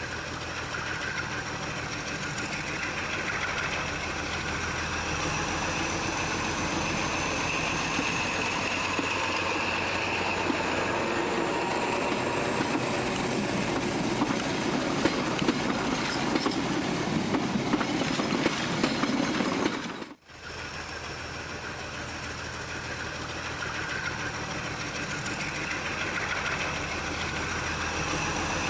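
Train running on the rails with a steady rumble and wheel clatter, a high tone slowly rising over it. About twenty seconds in the sound cuts out abruptly for a moment, then resumes.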